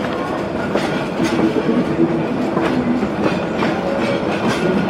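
Calico Railroad narrow-gauge passenger train rolling along, heard from aboard: a steady rumble of wheels on the track with irregular clicks as the wheels cross rail joints.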